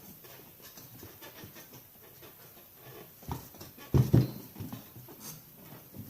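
Vise grips working a stud on a chainsaw: faint handling noise, with a few short knocks about three to four seconds in.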